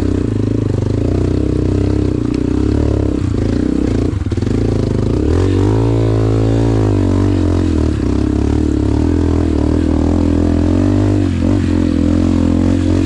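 Honda CRF150 dirt bike's single-cylinder four-stroke engine running under way, heard from the rider's position. About halfway through the engine pitch rises and then falls as the throttle is opened and eased off.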